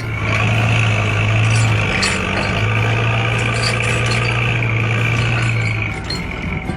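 A loud, steady low engine-like hum, like a truck engine, that starts suddenly, dips briefly about two seconds in and stops near the end, over background music.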